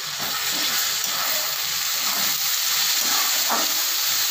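Chopped tomatoes and onions sizzling steadily in hot ghee in a pan, with a metal spatula stirring and scraping through them near the end.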